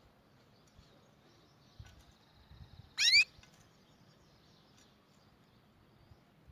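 Canary giving a single short, loud rising call about three seconds in, against a faint background.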